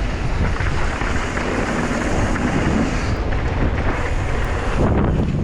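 Wind rushing over a camera microphone during a fast mountain bike descent, with the steady rumble of the ride underneath.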